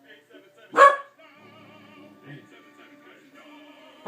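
Pembroke Welsh Corgi barking at the TV: one sharp, loud bark about a second in and another right at the end. Between the barks, faint operatic singing and music from the television commercial play.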